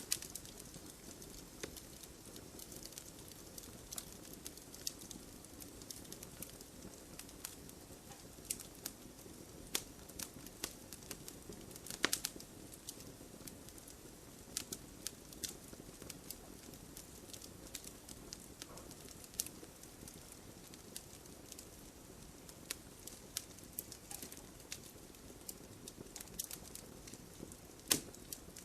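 Wood fire in an open fireplace crackling: a low steady hiss of flames with scattered sharp pops and snaps, a louder pop about twelve seconds in and another near the end.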